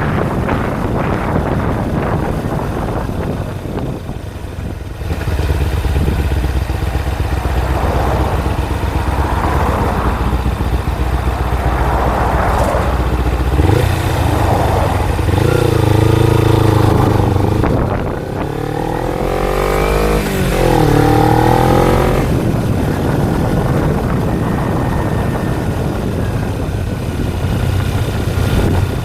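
Kawasaki Ninja 250's parallel-twin engine running under way, with wind noise on the microphone. From about halfway through, the revs climb and drop several times before settling back to a steady run.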